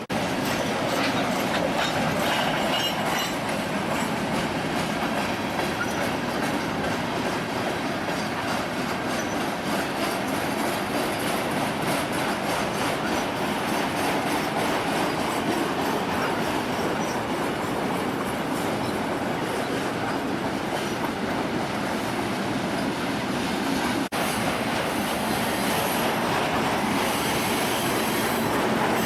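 Union Pacific freight train rolling steadily past, its cars' wheels clattering on the rails with some wheel squeal.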